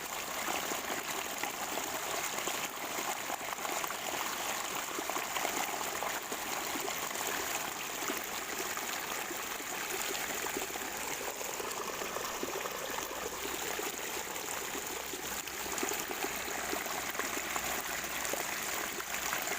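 Water of a natural spring flowing and gurgling steadily.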